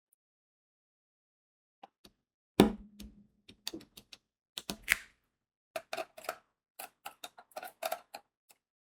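Small plastic clicks and taps of diamond-painting work: crystal drills being pressed onto the sticky canvas with a drill pen. The clicks come irregularly, after one louder knock a couple of seconds in.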